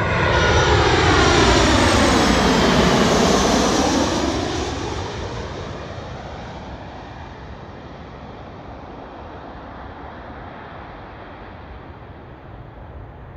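A Ryanair jet airliner on landing approach passing close by. Its engine noise swells to a loud rush over the first few seconds with a sweeping, phasing tone, then fades to a steady, quieter rumble as the plane moves away.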